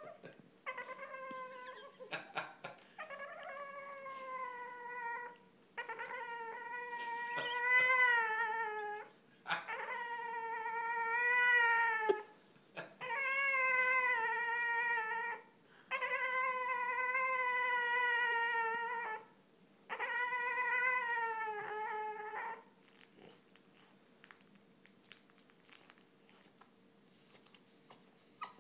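Young Boston terrier whining in a run of long, wavering, high cries, each lasting two to three seconds, about eight in all before falling quiet near the end. This is attention-seeking whining.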